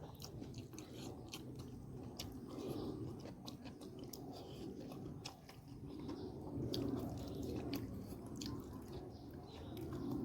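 A person chewing and biting food close to the microphone, with many sharp crunches and wet mouth clicks.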